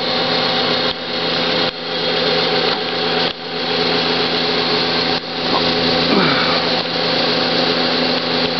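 1953 Ilg 8-inch all-steel wall exhaust fan running steadily: a continuous rush of air over a steady electric motor hum, dipping briefly in level a few times.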